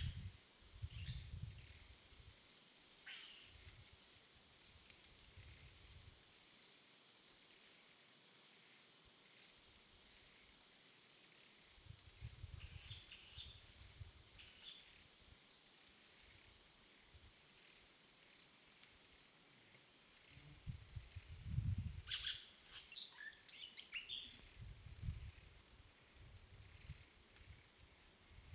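Faint rural outdoor ambience: birds chirping now and then, in small clusters, over a steady high-pitched whine, with occasional low rumbles.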